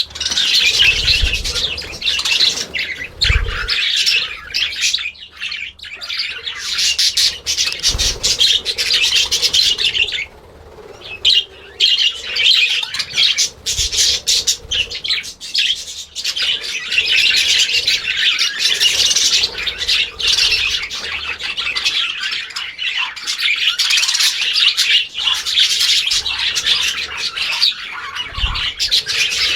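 A flock of birds chattering and squawking continuously, many calls overlapping, with a short lull about ten seconds in and a few soft low thumps.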